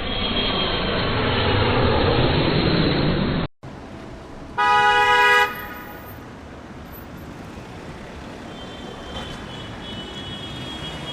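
Traffic noise, with a loud horn sounding once for about a second near the middle. The noise cuts off abruptly about a third of the way in and comes back quieter.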